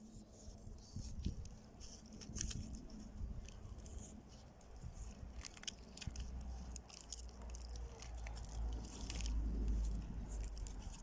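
Dry plant stems and leaves rustling and crackling in the hands as they are woven through a string-and-twig loom, in many short irregular crackles, with a low rumble growing stronger in the second half.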